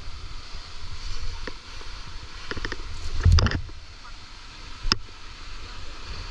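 Outdoor water ambience at a rock pool: a steady low rumble with a hiss over it, and a cluster of splashes and knocks about three seconds in, the loudest part, followed by a single sharp click near five seconds.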